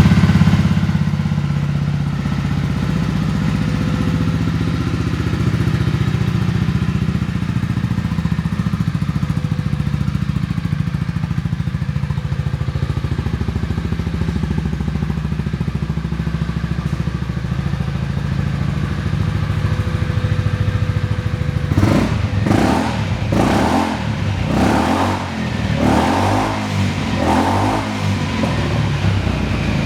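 Honda Forza Z (MF10) scooter's fuel-injected single-cylinder engine through an aftermarket muffler, idling steadily for about twenty seconds. Near the end the throttle is blipped about six times in a row, each rev rising and dropping back.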